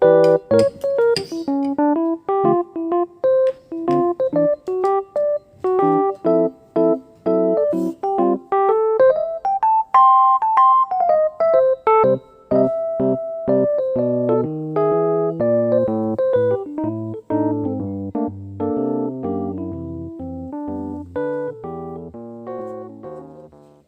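Background piano music: a gentle melody of struck notes with chords that move lower in pitch about halfway through, fading out at the very end.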